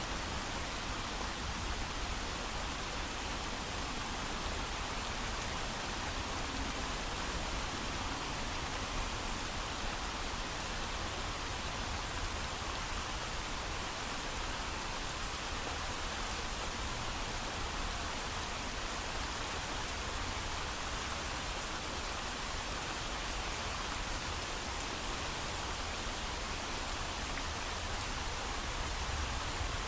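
Steady rain, falling heavily and evenly with no thunder, a dense unbroken hiss of drops.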